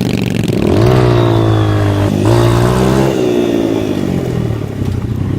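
Dirt bike engine revving up, with a sudden short dip in revs about two seconds in, then revving down toward the end.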